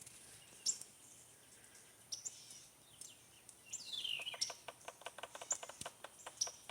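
Wild birds chirping, with short chirps and a few falling whistles. About two-thirds in, a rapid, even run of sharp taps begins, about six a second: a woodpecker pecking at wood while foraging for insects.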